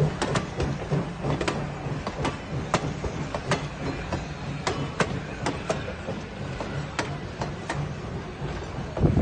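Vintage wooden-era passenger coaches rolling slowly past, their steel wheels clicking and knocking irregularly over the rail joints, with a low steady hum in the first couple of seconds and a louder knock near the end.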